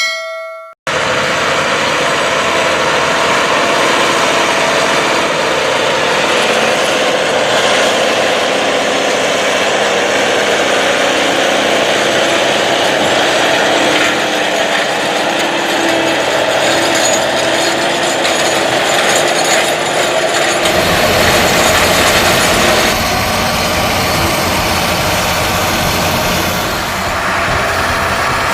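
Large John Deere tractor's diesel engine running steadily, with mechanical noise. About two-thirds of the way in the sound changes to a deeper, heavier engine note.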